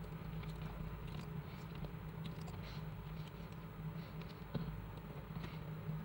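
Scattered light clicks and taps of small-object handling, over a steady low hum.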